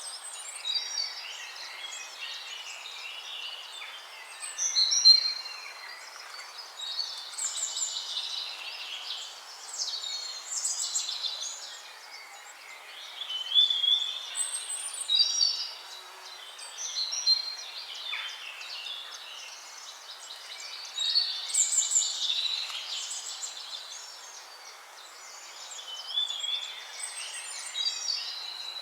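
Several songbirds singing in overlapping phrases of high chirps and trills, coming in clusters every few seconds over a steady background hiss.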